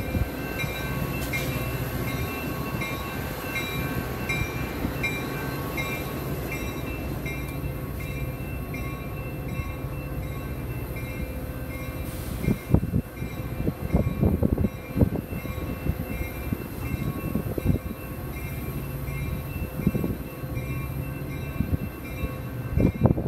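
Metra bilevel commuter train rolling along the rails with a steady low rumble. A short high ding repeats about twice a second through it. In the second half there are uneven loud thumps.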